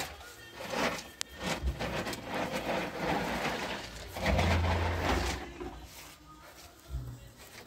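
Stones being handled and shifted into place: irregular scraping and knocking, with a sharp click about a second in and a longer, louder scrape near the middle.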